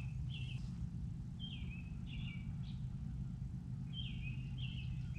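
Songbirds singing in three short phrases of quick downslurred whistled notes, over a steady low hum.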